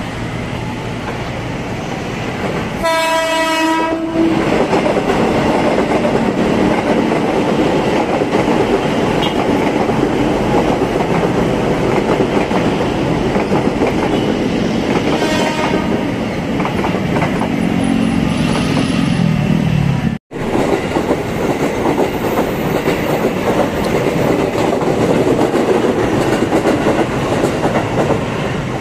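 KRL Commuter Line electric multiple-unit train sounding its horn once, about three seconds in, for about a second, then passing at speed with a loud steady rumble and clatter of wheels on the rails. A short low falling whine comes near the middle, and the sound drops out for an instant a little before the end.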